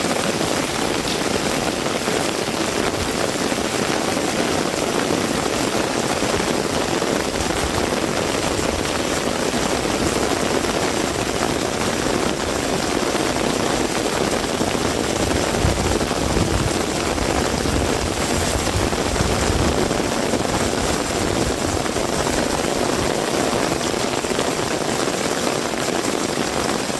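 Heavy rain pouring steadily. A low rumble swells for a few seconds a little past the middle.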